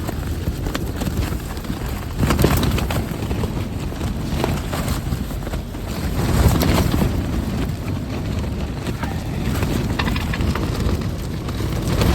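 Violent gusty wind buffeting the microphone as a loud, low rumbling roar. It surges about two seconds in and again around six to seven seconds in.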